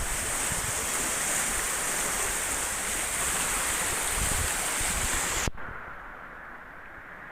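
Rushing floodwater of a swollen brook, a steady hiss of fast water, with wind buffeting the microphone. About five and a half seconds in, the sound drops suddenly and turns duller and quieter.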